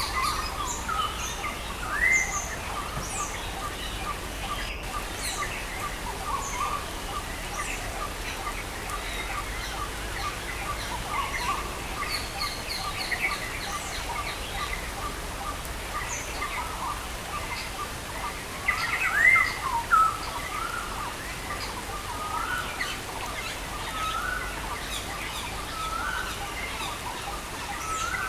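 Several songbirds chirping and calling over a steady hiss of rain. In the first half there is a quick run of evenly spaced pips, and about two-thirds of the way through come two loud rising calls.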